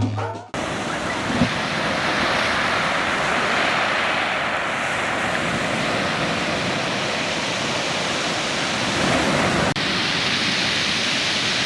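Ocean surf washing steadily on a beach, a continuous rushing noise that shifts slightly near the end.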